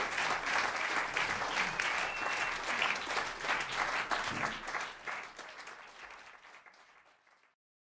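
Audience applauding, fading out over the last few seconds.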